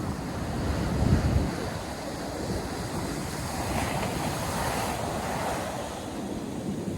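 North Sea surf breaking and washing up the beach, a wave's hiss swelling and fading in the middle. Wind rumbles on the microphone, strongest about a second in.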